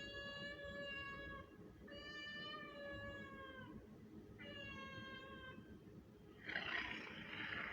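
Three long kitten meows, each about a second and a half, the second sliding down in pitch at its end. A harsh hissing noise starts near the end.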